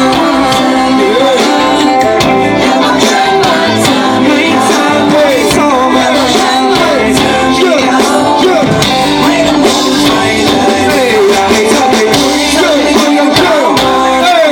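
Live rock band playing, with amplified singing over electric guitar, bass and drums.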